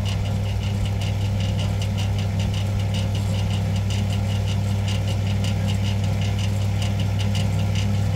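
An engine running steadily with a constant low hum and a regular high ticking, about three to four ticks a second.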